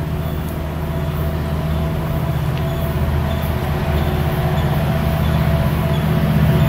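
Diesel train approaching on the line, its engine rumble growing steadily louder.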